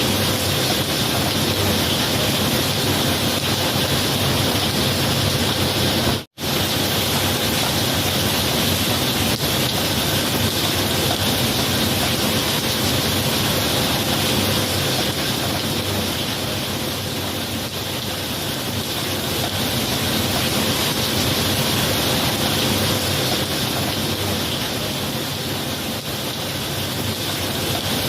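Steady heavy rain, an even hiss with no distinct thunderclaps. The sound cuts out for a split second about six seconds in.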